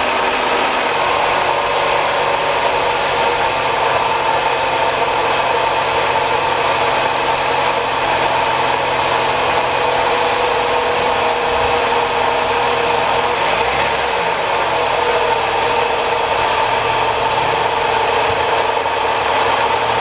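Saturn car engine idling just after starting, loud and steady, with a constant whine over it. This is the abnormal engine noise that the owner suspects comes from a bad pulley bearing in the alternator, belt tensioner or A/C compressor.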